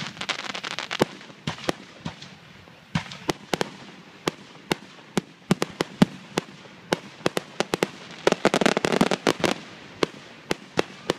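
Aerial fireworks shells bursting during a grand finale: a rapid string of sharp bangs, with dense crackling right at the start and a longer stretch of it about eight seconds in.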